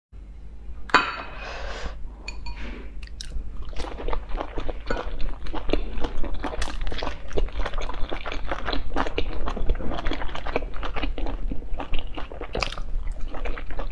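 Close-up mouth sounds of a person biting and chewing soft pork-and-chive steamed buns: a quick, irregular run of chewing clicks and smacks.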